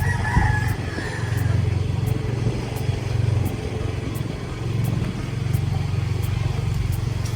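Motorbike engine running while riding, a low drone that swells and eases a few times with the throttle.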